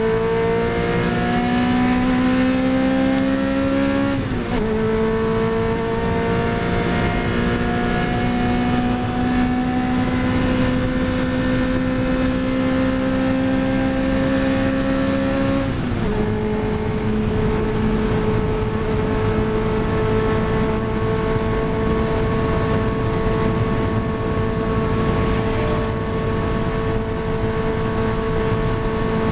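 Lotus Elise 111R's Toyota 2ZZ-GE 1.8-litre four-cylinder at full throttle, heard from inside the cabin. The engine note climbs high in the rev range and drops with an upshift about four seconds in. It climbs slowly again to around 8,000 rpm and drops with a second upshift about sixteen seconds in, then holds a nearly steady pitch.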